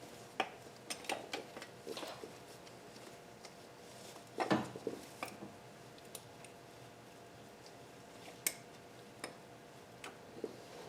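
Scattered light metallic clinks and knocks of hand tools and bolts against engine parts, with a louder clunk about four and a half seconds in and a sharp click near eight and a half seconds.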